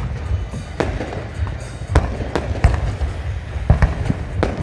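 Fireworks display: a rapid, irregular series of bangs and crackles over a continuous low rumble, with the strongest bangs about a second in and again around two, three and a half and four and a half seconds in.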